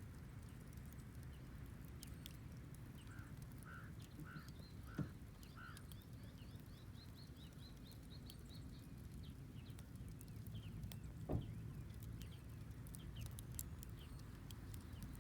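Bonfire burning with faint crackling and two sharp wood pops, about five and eleven seconds in. Birds call in the background: a run of five short chirps around four seconds in, then a string of thin high twitters.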